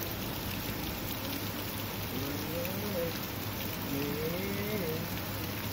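Steady heavy rain falling and pattering on surfaces during a thunderstorm, with no thunderclap. A faint, wavering voice-like sound rises and falls a few times in the middle.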